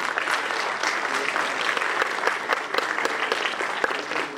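Audience applauding, a dense steady clapping that starts to thin out near the end.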